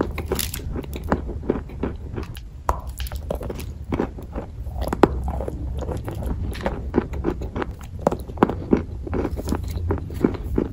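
Close-up biting and chewing of a dry, chalky mineral lump: many short, irregular crunches and crackles, with a steady low hum underneath.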